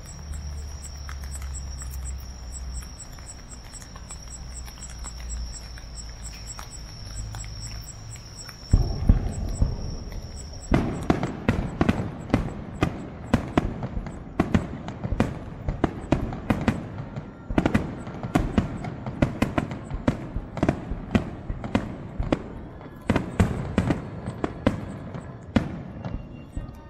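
Fireworks finale: a dense barrage of shells launching and bursting, sharp bangs coming several times a second from about nine seconds in. Before that there is only a low hum and a steady high tone.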